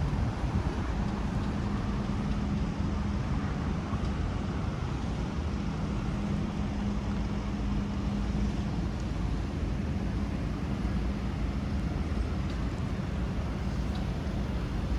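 Steady city street traffic noise: cars passing, with a low engine hum that fades in and out.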